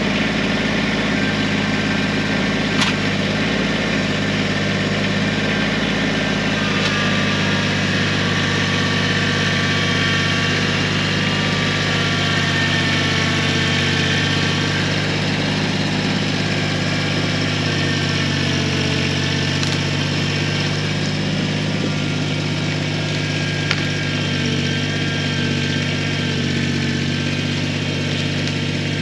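Kubota BX23S sub-compact tractor's three-cylinder diesel engine running steadily under load as the front loader lifts and drags a long log chained to its bucket. There are a couple of brief knocks, one about three seconds in and one near the end.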